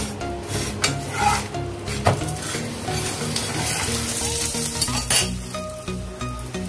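Paratha frying in oil in a non-stick pan, sizzling steadily, while a metal spatula scrapes against the pan to press and flip it, with a few sharp clicks of metal on the pan.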